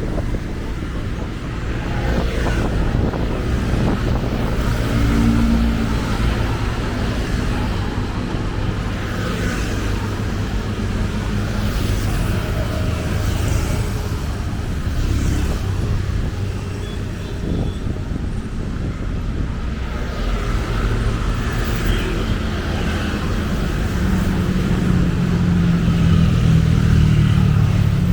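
City road traffic: cars passing with a steady low engine and tyre rumble, and a nearby vehicle engine growing louder over the last few seconds.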